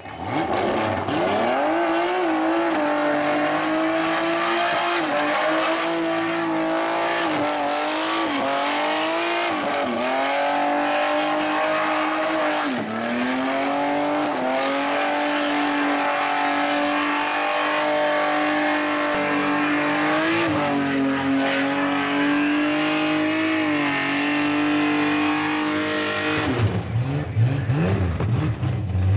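Chrysler Centura's six-cylinder engine held at high revs through a burnout, rear tyres spinning and squealing, the revs dipping briefly several times. Near the end the engine drops off to a low, uneven rumble.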